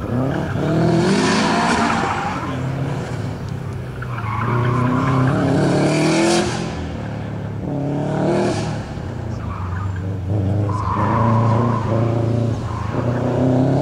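2006 Subaru WRX STi's turbocharged 2.5-litre flat-four engine revving up and down in about four surges as the car is driven hard through tight turns, with tyres squealing in the corners.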